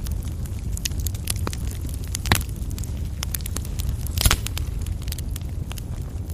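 Coal fire burning in a fireplace, crackling with frequent small snaps over a low steady rumble. Two louder pops stand out, one about two and a half seconds in and one just past four seconds.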